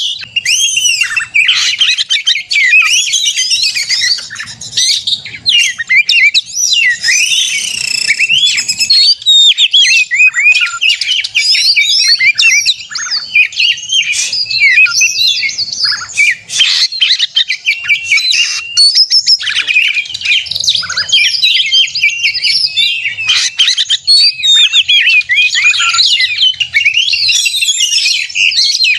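Oriental magpie-robin (kacer) in full, unbroken song: a fast, dense stream of varied whistles, trills and gliding notes. This is the vigorous fighting-mood singing ('gacor narung') that is played to provoke other magpie-robins into singing.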